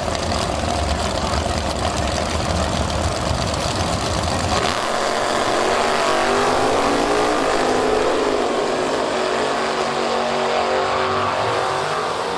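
Drag racing car engines. A heavy low rumble gives way abruptly, about four and a half seconds in, to an engine note that rises and falls in pitch.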